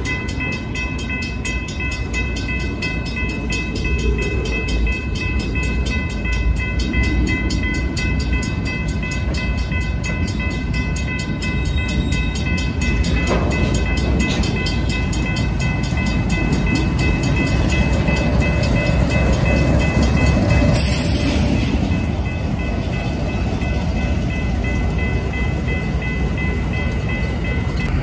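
A slow freight train of empty bulkhead flatcars rolls past with a steady rumble of wheels on rail, and the diesel locomotives draw nearer toward the end. A set of steady high ringing tones runs throughout, and there is a short hiss about three-quarters of the way through.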